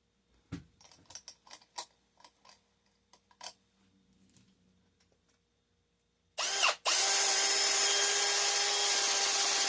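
A few light clicks and taps of handling, then an electric drill starts briefly, stops, and starts again about half a second later. It then runs steadily with an even whine, opening up a hole in an aluminum bus bar.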